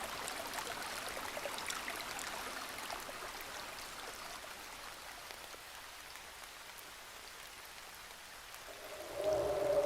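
Soft crackling hiss with many small clicks, like rain, slowly fading. A held tone comes back in near the end.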